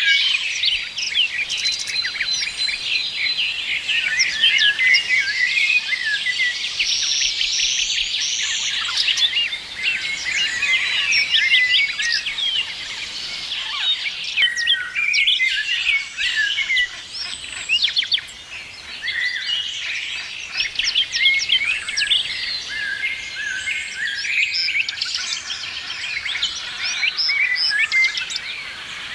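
Many songbirds singing and chirping at once in a dense, continuous chorus of quick high-pitched notes.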